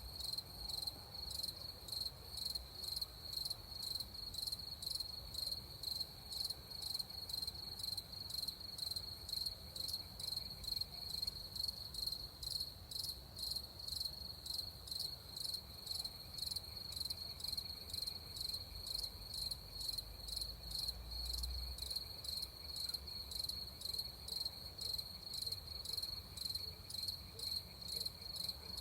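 Crickets chirping in a steady, even rhythm of a couple of chirps a second, one high pitch held throughout, with a fainter, lower-pitched chirping beside it.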